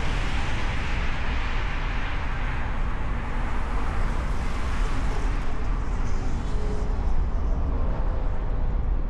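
Car driving through city streets, heard from a hood-mounted camera: steady low road rumble with tyre and wind hiss that eases off after about three seconds, and a faint engine hum showing later.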